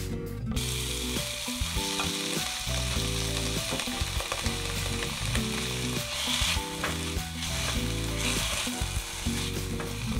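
Chopped kimchi dropping into hot oil in a frying pan about half a second in and sizzling steadily as it is stir-fried with a silicone spatula.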